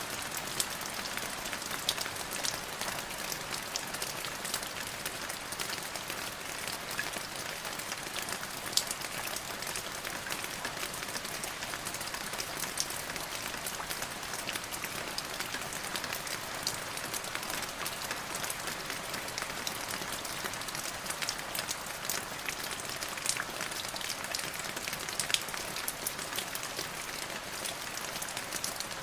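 Steady rain falling on a surface, a continuous hiss with many individual drops ticking sharply throughout.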